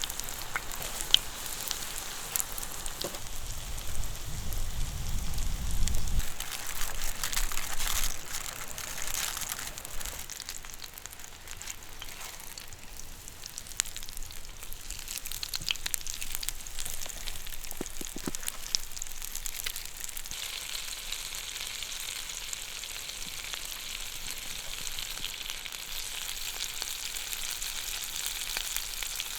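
Food sizzling and frying in a pan, a steady crackling hiss with scattered pops, which settles into a smoother sizzle past the middle. A brief low rumble sounds a few seconds in.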